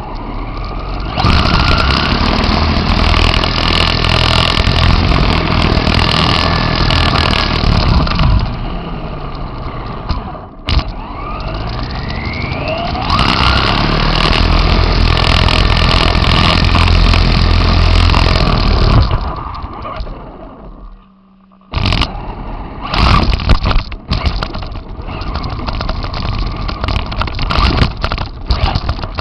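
RC car driving over rough ground, heard from on board: the drivetrain and tyres run loud and rough under throttle. About a third of the way in, the motor whine rises in pitch several times. About two-thirds through the sound briefly drops away, then comes back in short choppy spurts.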